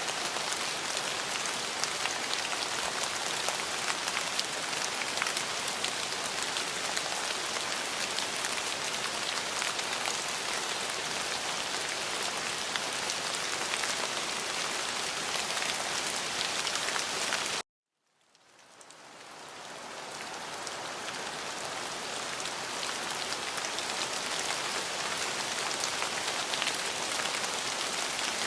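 Steady rain falling on a surface, with fine, scattered drop ticks. About two-thirds of the way through it cuts out to silence for a moment, then fades back in over a couple of seconds.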